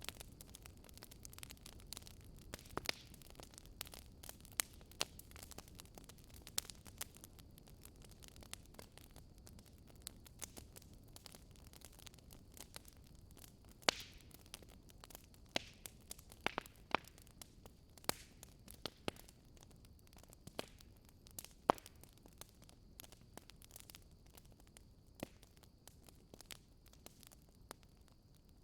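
Wood fire crackling: irregular sharp pops and snaps over a low hiss of burning, a few louder pops among them.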